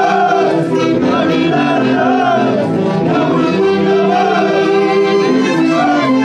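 A Peruvian festival orchestra plays a melody in held, overlapping notes, with phrases rising and falling about once a second.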